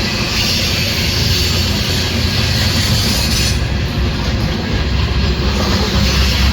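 Loaded Norfolk Southern coal train rolling past: a steady rumble of wheels on rail, with a high hiss of wheel noise that drops away a little past halfway and comes back near the end.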